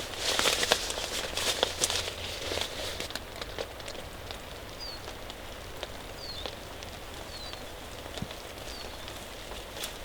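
Steady rain pattering with scattered drips, louder and busier for the first couple of seconds, then settling. A few short, high, falling chirps of a small bird come in the second half.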